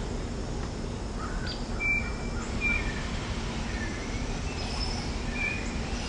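Songbirds calling: a string of short whistled chirps and sliding notes from about a second in, over a steady low background rumble.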